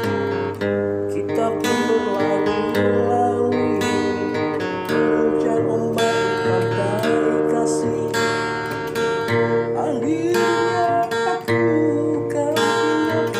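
Acoustic guitar strummed and plucked in chords, out of tune, played with its E and G strings broken.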